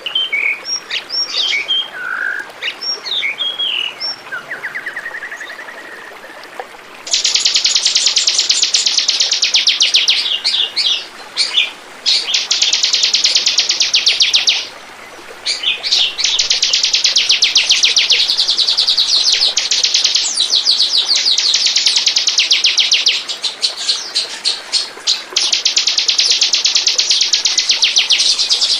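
Bar-winged prinia (ciblek) song: a few scattered high chirps, then from about seven seconds in a loud, very rapid rattling trill that runs on with a few brief breaks.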